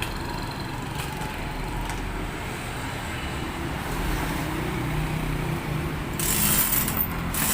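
A motor vehicle engine running with a steady low rumble. A bright hiss comes in about six seconds in, stops briefly and returns near the end.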